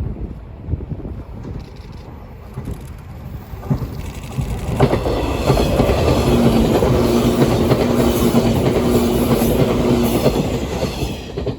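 485-series electric train passing close by. The sound builds sharply about four seconds in and stays loud, with wheels clicking rhythmically over rail joints and a steady hum. It falls away just before the end.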